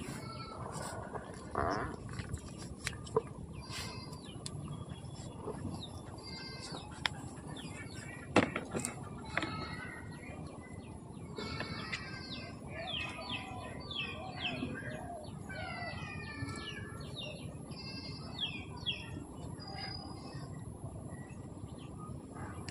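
Small birds chirping and calling, busiest in the second half, over a steady background hiss, with a few sharp clicks, the loudest about eight seconds in.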